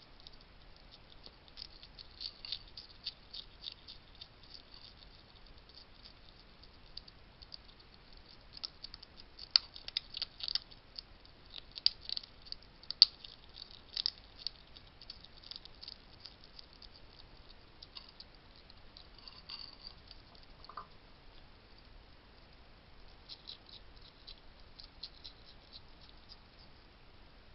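Wild hedgehog eating dry food at a feeding station: a run of small crisp crunching clicks, busiest and loudest in the middle and sparser towards the end.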